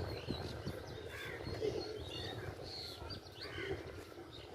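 Small birds chirping repeatedly in quick, short sweeping calls over a steady low background rumble.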